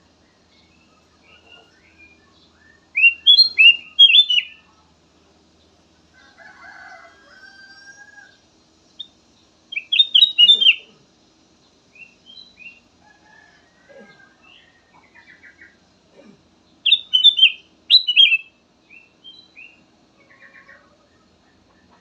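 Kutilang emas bulbul singing: three loud bursts of quick, rising and falling whistled notes, spaced about seven seconds apart, with softer chirps in between.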